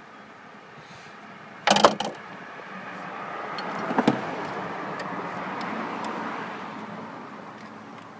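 Sharp plastic clicks and rattles about two seconds in and again about four seconds in, from the plug wire and its plastic wire clamp being worked loose. A passing car swells and fades in the middle.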